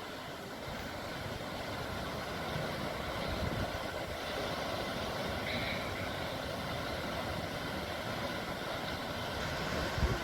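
Sea waves washing steadily, with wind rumbling on the microphone and a few low thumps near the end. A brief high note sounds about halfway through.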